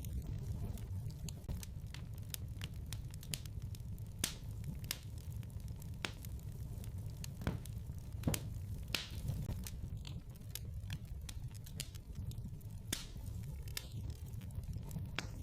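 Wood fire crackling in a fireplace: irregular sharp pops and snaps over a steady low rumble, with a louder pop a little past the middle.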